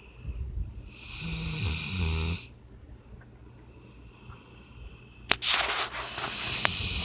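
Sleeping puppy snoring: a buzzing snore about a second in, then a rougher, clicking snore from about five seconds in.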